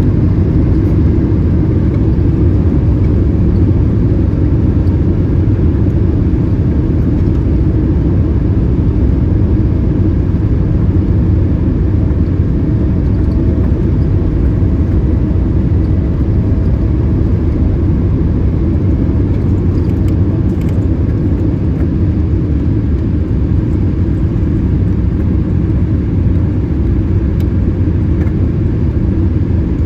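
Steady low rumble of a Boeing 787-8 airliner's engines and airflow, heard from inside the passenger cabin.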